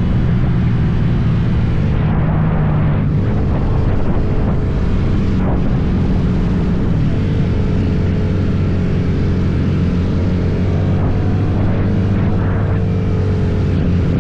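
Motorcycle engine running steadily under way on a ride; the engine note shifts about three seconds in, then holds an even pitch.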